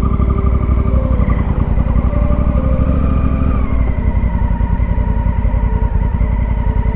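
Honda Africa Twin motorcycle engine running steadily while riding, its pitch dipping slightly a little past halfway.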